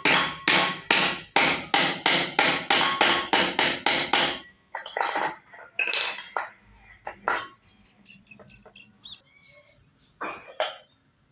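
Hammer blows with a slight metallic ring: a quick run of a dozen or so strikes, getting faster, then a few slower scattered strikes and two more near the end.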